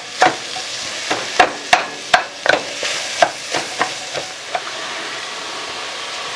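Chopped onion sizzling in hot olive oil in a pan, being sweated down. A utensil stirs it, knocking and scraping against the pan about a dozen times over the first four and a half seconds, then the sizzling goes on steadily alone.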